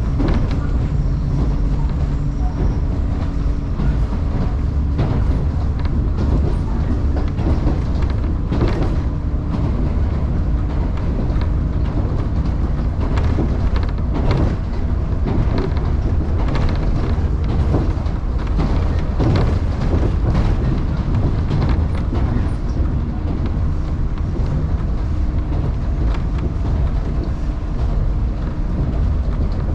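Electric commuter train running between stations, heard from inside the carriage: a steady low rumble with some steady low tones and scattered clacks of the wheels over rail joints.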